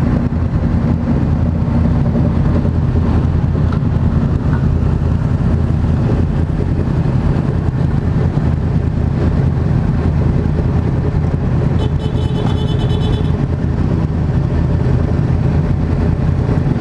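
Motorcycle engine running steadily at idle. About twelve seconds in, a brief high-pitched pulsing beep sounds for a second or so.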